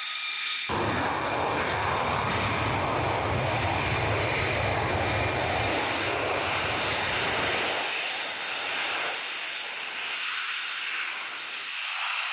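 Jet aircraft engine noise: a loud rushing roar with deep low rumble that cuts in suddenly under a second in, its low end falling away at about eight seconds and leaving a thinner hiss.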